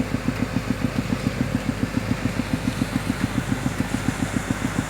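Pneumatic piercing tool ('missile') hammering its way under the road, air-driven by a compressor: a steady, rapid thumping of about seven beats a second.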